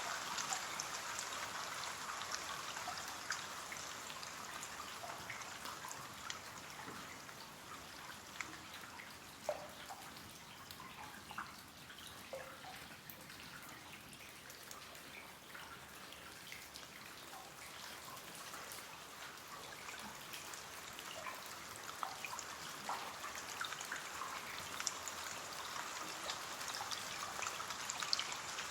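Steady rain pattering on a window pane, with many small individual drops ticking against the glass; it eases off towards the middle and builds again near the end.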